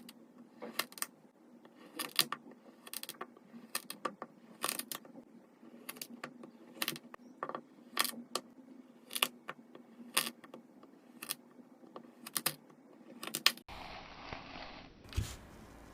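Knife cutting kinetic sand: a run of sharp clicks and taps, about one or two a second. Near the end it gives way to a soft steady rustle with two low thumps.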